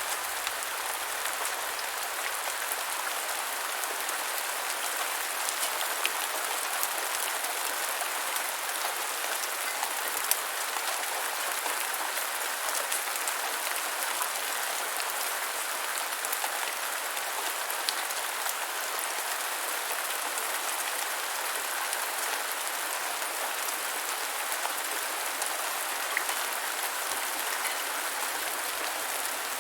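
Steady rain falling on the ground, an even hiss dotted with many small drop ticks and an occasional sharper splat.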